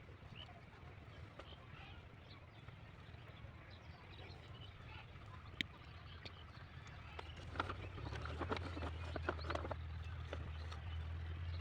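A 5 hp diesel engine driving a water pump runs with a steady low drone that grows louder about eight seconds in. A sharp click comes about halfway through, and a cluster of clicks and knocks follows shortly after.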